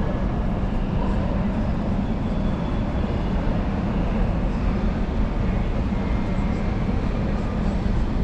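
Steady low mechanical rumble with a constant hum, like running vehicle or aircraft machinery.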